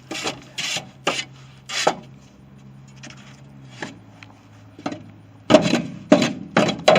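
Shovel scraping and scooping loose sandy soil: a series of short rasping strokes, a few in the first two seconds, then a quicker run of them near the end.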